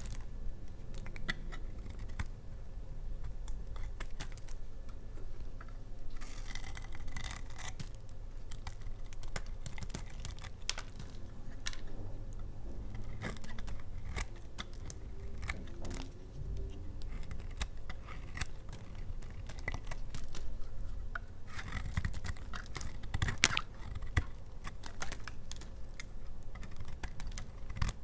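Blade cutting through dry laundry soap: a steady run of small crisp clicks and scrapes, thickening into denser stretches about six seconds in and again past twenty seconds.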